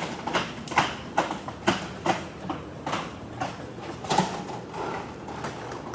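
Footsteps on a hard floor: a run of sharp knocks at about two a second that grow fainter near the end.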